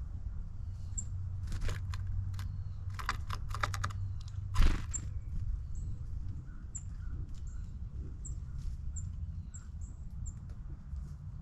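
Birds at a seed feeder: sharp clicks and taps of beaks and feet on the feeder, in quick clusters with one louder knock about halfway, while a small bird gives short high chip notes over and over, over a steady low rumble.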